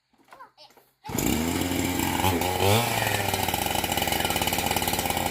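A two-stroke chainsaw running, cutting in suddenly about a second in, with a brief rev before it settles to a steady run.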